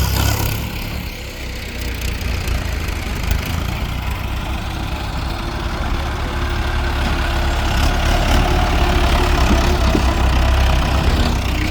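Diesel tractor engine running hard, hauling a loaded mud trolley up a ramp. The steady low drone grows louder in the second half.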